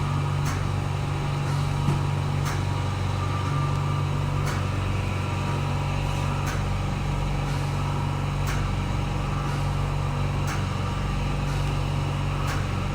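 Vacuum RF beauty machine running with its cavitation handle: a steady low hum with a light click about once a second.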